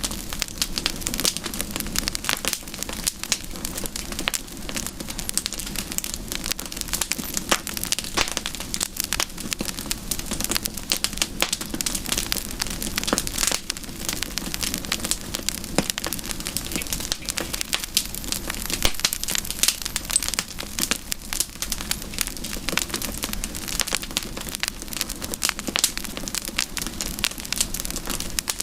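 Wood fire crackling and popping steadily, with many irregular sharp snaps over a soft hiss of the flames.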